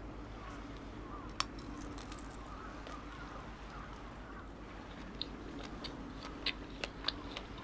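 Close-up eating sounds: chewing, with sharp crisp clicks about a second and a half in and several more near the end, over a low steady hum.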